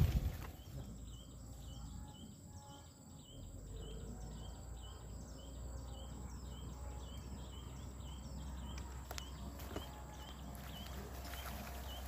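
A bird repeating a short, high chirp about twice a second, steady and faint, over a low outdoor rumble.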